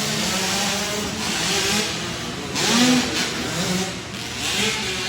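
Several 65cc two-stroke youth dirt bikes racing, their engines revving up and down in pitch as they accelerate and back off. The loudest surge comes about three seconds in.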